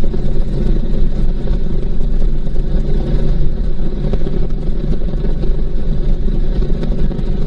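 Honda VTX1800C's 1800 cc V-twin running steadily at highway cruising speed, about 70 miles an hour, mixed with steady wind noise.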